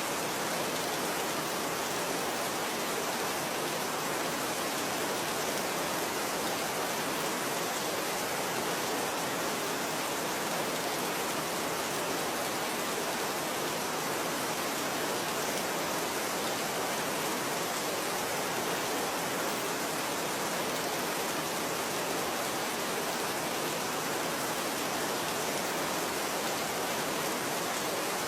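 Steady, even rain, a dense hiss of falling rain with no single drops standing out.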